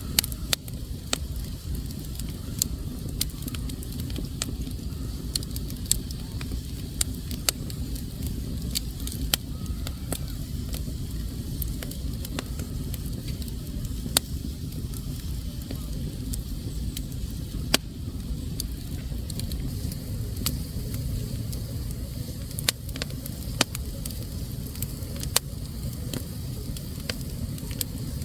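Wood fire burning in a fireplace and crackling: irregular sharp pops and snaps over a steady low rumble.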